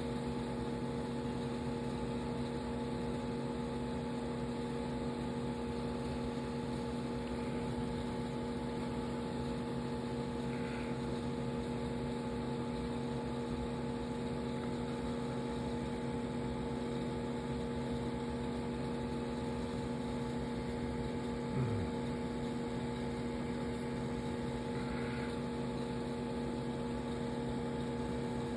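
Steady electrical hum of running aquarium equipment such as a filter or air pump, several constant tones over a light hiss. About three quarters of the way through there is one brief, low, falling sound.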